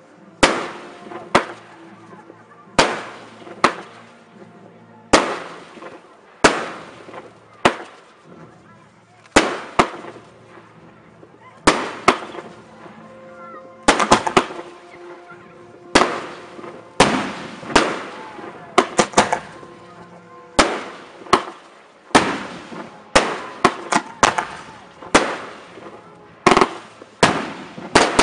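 Fireworks display: aerial shells bursting one after another in sharp bangs, each trailing off, about one every second or two and coming more quickly in the second half.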